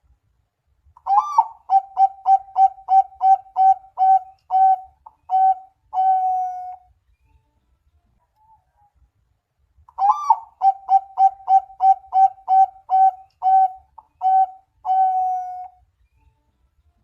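Zebra dove (perkutut) singing its cooing song twice: each phrase opens with a rising note, then runs into a rapid string of about a dozen short, clipped coos on one pitch that slow toward the end and finish on a longer drawn-out coo.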